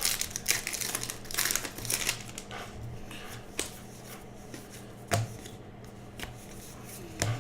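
Baseball trading cards being handled and flipped through, with light rustling and crinkling of foil pack wrappers: a scatter of short clicks and rustles, the sharpest about five seconds in and near the end.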